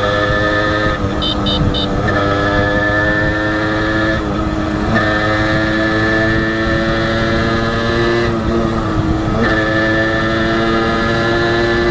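Honda H100S single-cylinder two-stroke motorcycle engine running under way, its note dropping briefly and picking up again about three times. About a second in, three short high beeps sound over it.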